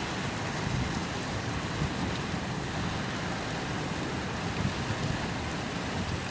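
Storm on an ocean beach: strong wind rumbling irregularly on the microphone over a steady hiss of rain and surf.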